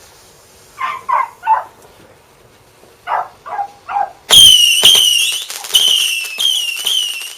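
A dog barks three times, then three times more; about four seconds in a firework goes off with a loud bang, followed by a rapid string of whistling fireworks, each a short sliding high whistle with crackles.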